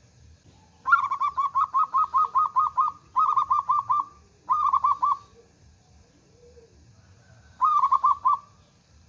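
Zebra dove (perkutut) cooing in four quick runs of short, evenly spaced notes, about five a second; the first run is the longest, about two seconds.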